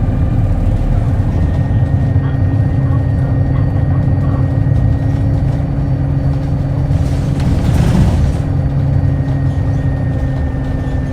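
Hino Blue Ribbon Hybrid city bus heard from inside the cabin while under way: a steady engine and drivetrain drone with a thin, faint steady whine. About seven seconds in there is a brief, louder rush of noise.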